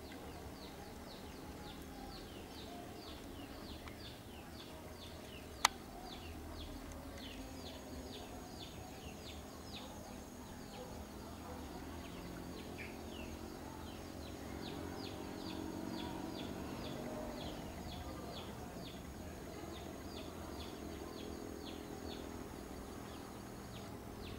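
A small bird calling a fast, even series of short high falling chirps, about two to three a second, over a faint low outdoor hum. A single sharp click comes about six seconds in, and a thin high steady tone runs through most of the rest.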